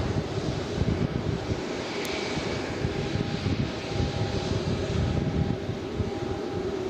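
Jet airliner's engines rumbling steadily as it rolls out on the runway after landing, with gusty wind buffeting the microphone.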